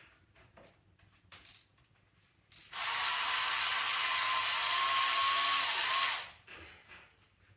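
Power ratchet running for about three and a half seconds with a steady whine, spinning out an E10 Torx bolt; it starts about three seconds in and stops abruptly. A few light tool clicks come before it.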